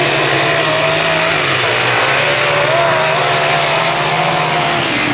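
Grasstrack sidecar racing outfits' engines running together in a loud, steady drone, their pitch wavering only slightly.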